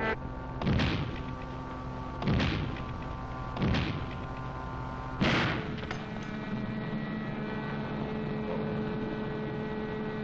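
Cartoon sound effects: four heavy booms about a second and a half apart, each with a short fading rumble, over a steady held drone.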